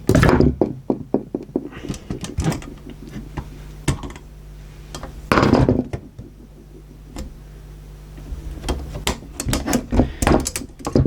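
Clicks and knocks of hands and a tool working at a VCR's cassette loading mechanism, prying at a stuck spring and part; irregular, with one louder knock about five seconds in and a quick run of clicks near the end.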